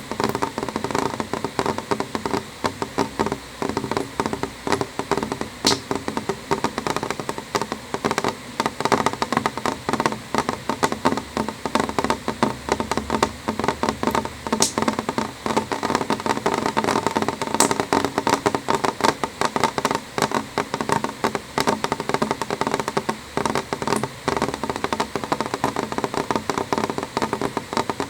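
Steady rain on a window pane: a dense, irregular tapping of drops on the glass, with an occasional sharper, brighter tick.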